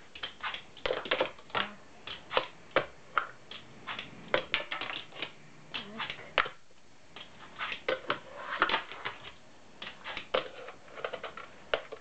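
Fingerboard clicking and clacking on a hard floor in quick, irregular taps as its trucks and deck hit the surface, with a short pause about six and a half seconds in.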